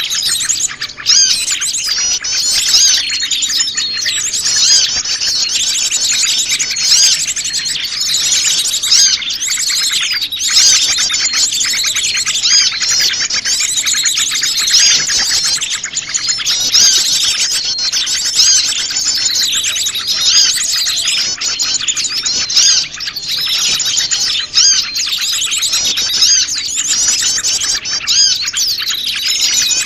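Dense, unbroken chorus of many small wild birds chirping and twittering over one another, a mix of species. It is a bird-lure recording (suara pikat) meant to draw small birds in.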